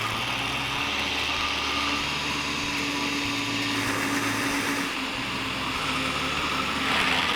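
Electric mixer grinder running steadily, grinding garlic with salt, lemon juice and ice cubes while oil is drizzled in to emulsify it into a garlic dip.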